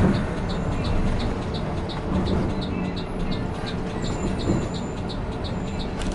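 Steady rumble of a Mercedes-Benz OC 500 RF 2542 coach on the move, heard from inside, with a light regular ticking about three times a second.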